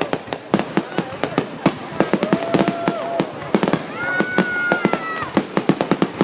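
Fireworks going off in a rapid, dense series of sharp bangs, several a second. Two held whistle-like tones sound over them, a lower one around the middle and a higher one a second later.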